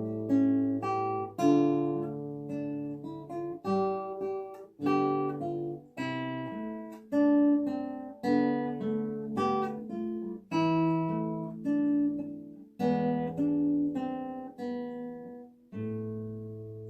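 Solo classical guitar playing a Russian folk song arrangement: plucked chords and melody notes, each ringing and dying away. Near the end a last chord is struck and left to ring and fade.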